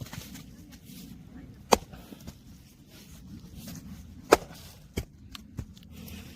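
Firewood being split by a log-splitting machine: sharp wooden cracks, two loud ones about two and four seconds in and lighter knocks shortly after, over a low steady rumble.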